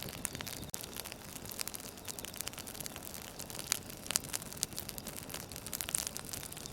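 Campfire crackling: wood burning with irregular sharp pops and snaps over a low steady hiss.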